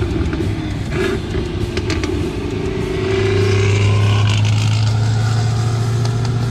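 Twin-turbocharged Camaro engine running with a steady low drone, its pitch climbing between about two and four seconds in.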